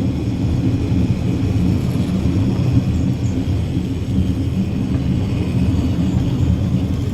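Shipley Glen funicular tram car running on its rails, a steady low rumble with a faint high whine above it.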